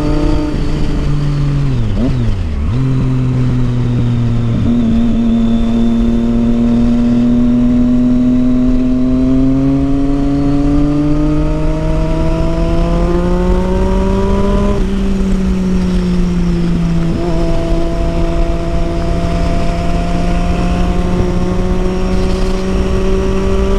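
Triumph Street Triple 675's inline-three engine through a loud Yoshimura aftermarket exhaust, ridden on the road. The revs dip briefly about two seconds in, climb steadily for about ten seconds, drop sharply around fifteen seconds, then hold steady at cruising speed.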